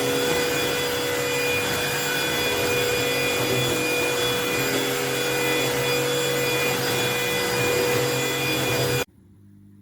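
Cordless stick vacuum cleaner running steadily, a rushing hiss with a steady motor whine, cutting off suddenly near the end.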